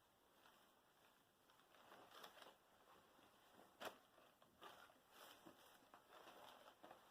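Near silence with faint rustling and soft handling noises from clothes being moved about, and one sharper click about four seconds in.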